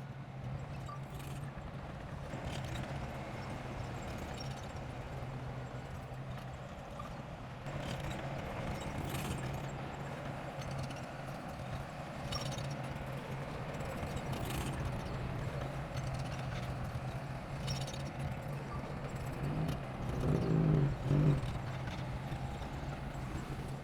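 Heavy machinery's diesel engine running steadily, with irregular metallic knocks every second or two and a brief surge in engine sound near the end.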